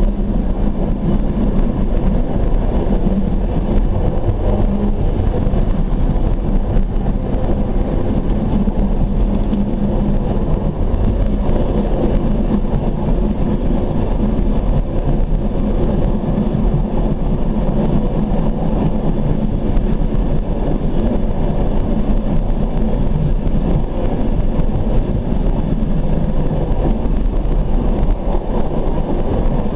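Steady running noise of a moving suburban train heard from inside the carriage: the low rumble of wheels on the track and the train's running gear.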